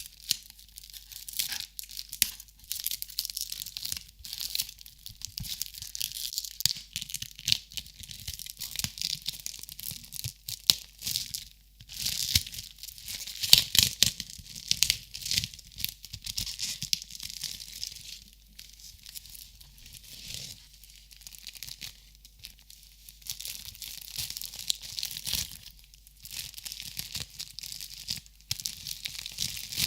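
Crinkling of a crinkly material being handled, a dense crackle of tiny clicks that comes in waves and is loudest about halfway through.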